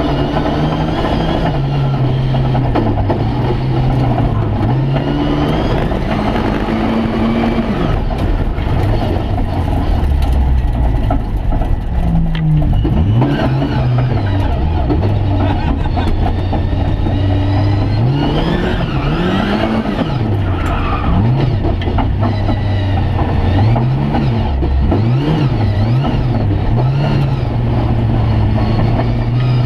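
Rally car's engine heard from inside the cabin, pulling hard and repeatedly climbing in revs then dropping back. In the second half the revs swing up and down in quick succession.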